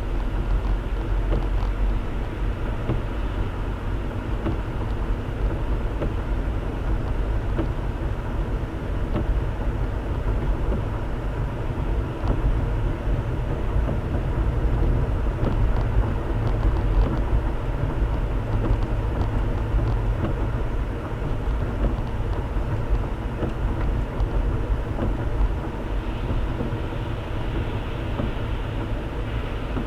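Car driving, picked up by a dashboard-camera microphone: steady road and engine rumble with tyre noise.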